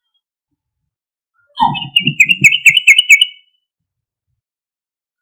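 Yellow-vented bulbul (trucukan) giving a loud burst of rapid, chattering song, about seven quick notes, starting about a second and a half in and ending after under two seconds.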